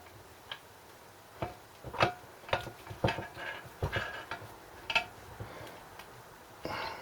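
Metal parts of a small Briggs & Stratton engine clinking and knocking as the piston is worked at during teardown. A dozen or so sharp clicks and knocks come at uneven gaps, some with a short metallic ring.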